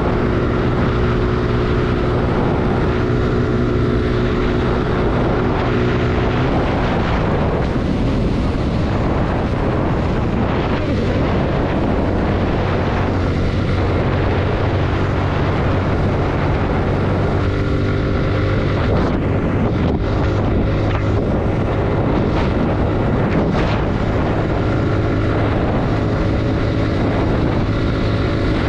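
Suzuki Gixxer 155's single-cylinder engine running at road speed, its note falling and rising several times with throttle and gear changes, over steady wind noise on the microphone.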